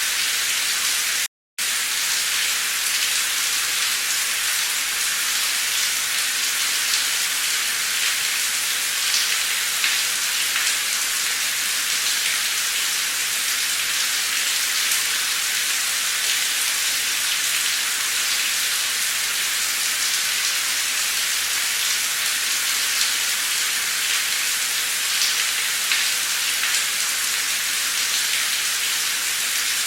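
Heavy, pouring rain: a steady hiss, with a brief dropout to silence about a second and a half in.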